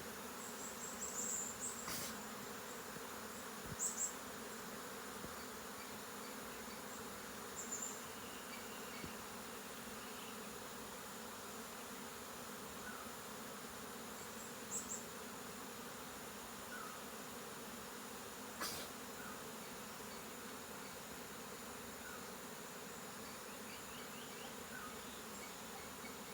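Steady buzzing of many honeybees, with a few short high chirps scattered through and two sharp clicks.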